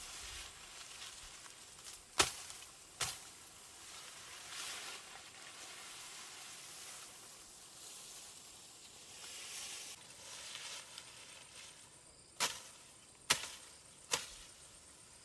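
A soft steady hiss of running stream water with sharp knocks, two a few seconds in and three close together near the end.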